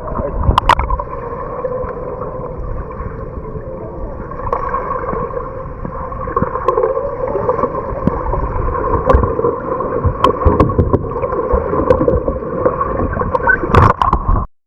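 Water sloshing, gurgling and splashing around a kayak as it rolls, heard muffled as if through a camera's waterproof housing, with scattered knocks and a louder splash near the end.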